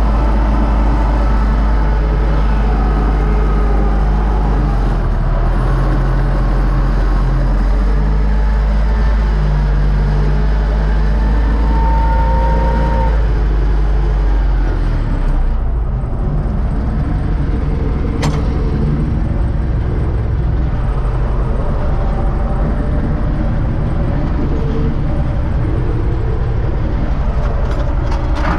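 UTB U-650 tractor's four-cylinder diesel engine running steadily while pulling an SUP-21 seed drill. Its note drops lower about halfway through, with a single click later on.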